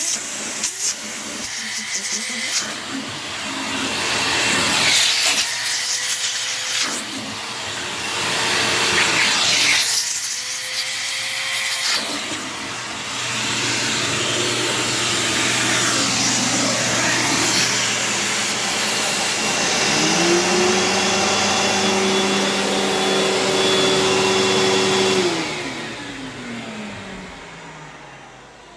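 Kenmore Whispertone upright vacuum, a Panasonic-built two-motor model, running loudly with the suction and brush noise rising and falling in the first half. Near the end it is switched off and its motor winds down, the hum falling in pitch as it fades.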